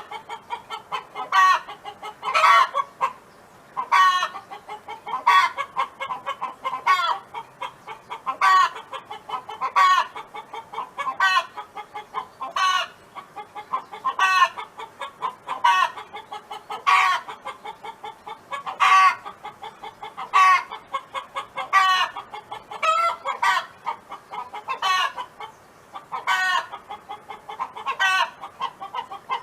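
Domestic hen clucking and calling over and over, one short call about every second and a half.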